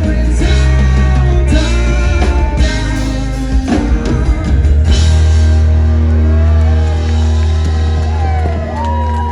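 Live folk-rock band playing, with a male singer over electric guitar, bass and drums, ending in a long held note.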